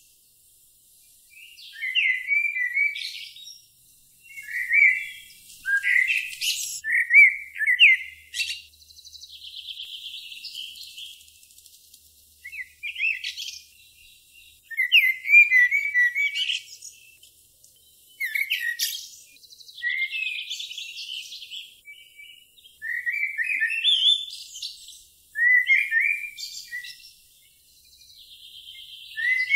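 A songbird singing short, quick chirping phrases about every two to three seconds, with a few longer, quieter buzzy trills between them.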